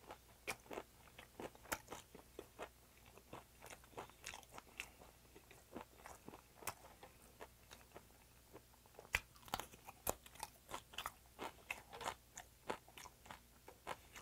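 Close-up, open-mouthed chewing and lip smacking of raw butterfish with a green chili pepper. The crunchy, wet clicks come irregularly and are busiest about nine to eleven seconds in.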